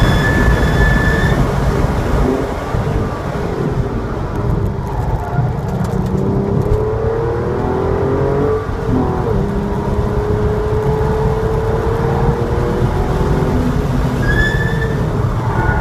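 Porsche 911 Targa's flat-six engine heard from inside the car on a race track: loud at speed, quieter for a few seconds as the car slows for a corner, then rising in pitch as it accelerates out, growing loud again near the end.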